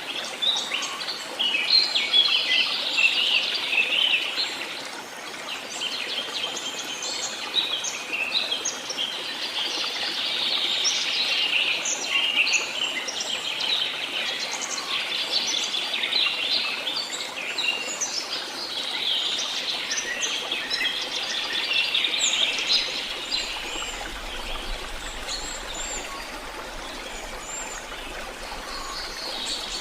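A chorus of many small songbirds singing and chirping at once, dense overlapping trills and chirps over a soft steady hiss.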